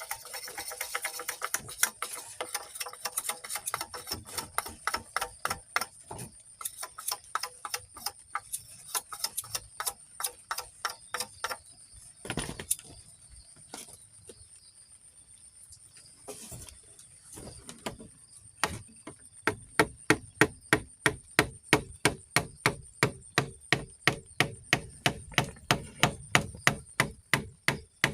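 Repeated sharp chopping strokes, quick and irregular at first, quieter for a few seconds around the middle, then a steady run of about three strokes a second in the last third, over a steady high-pitched drone.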